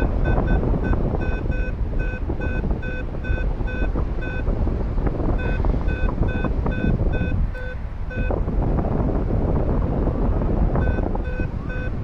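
Paragliding variometer beeping about three times a second at a steady pitch, the tone that signals the wing is climbing in lift; the beeping breaks off for a moment about four seconds in, stops about eight seconds in and starts again near eleven seconds. Wind rushing over the microphone underneath.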